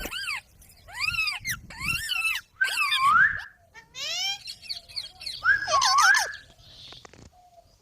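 Pet green parrot calling: a quick run of short, high-pitched squawks over the first few seconds, then a longer wavering call about five to six seconds in.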